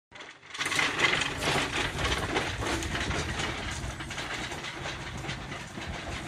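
Small narrow-gauge slate wagon with iron wheels rolling along the rails, rumbling and rattling with a run of clanks and clicks. It starts about half a second in.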